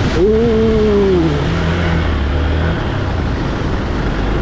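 A vehicle engine running, its pitch sliding down over the first second, then holding steady, over rough rumbling road and wind noise.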